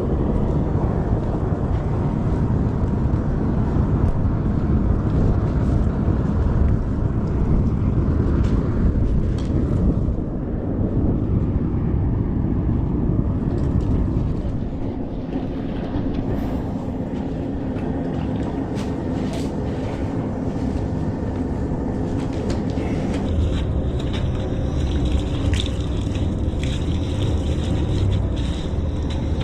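A machine running with a steady low rumble. It eases slightly about halfway through, and scattered clicks and knocks join it in the last few seconds.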